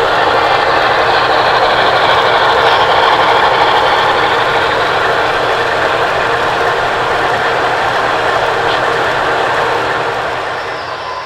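Steady running noise of a train on rails, easing slightly near the end.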